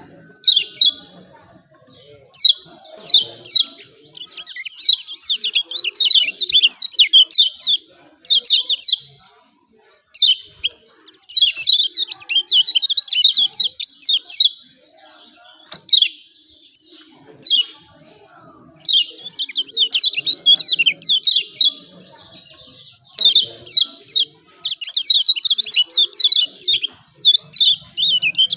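Kecial kuning (Lombok white-eye) giving its 'ciak ciak' call: rapid runs of sharp, high chirps in phrases of one to three seconds, broken by short pauses.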